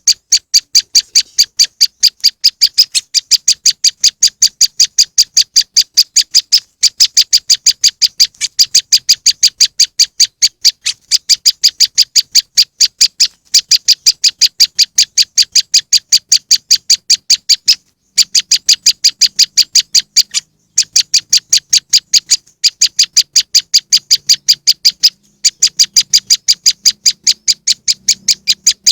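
Prenjak lumut bird-lure recording: the bird's calls as a rapid, even series of sharp high chips, about three a second, in long runs broken by short pauses.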